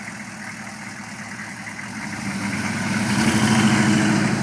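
GM 6.5 L turbo diesel V8 running through a 4-inch turbo-back exhaust with a stainless straight-through muffler, a steady, rapid exhaust pulse. The exhaust note swells louder from about halfway through.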